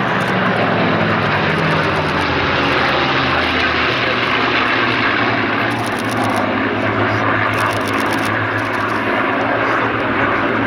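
Several propeller-driven, piston-engined warbirds diving past in formation, with a loud, steady engine roar. The engine note drops about four seconds in as they go by.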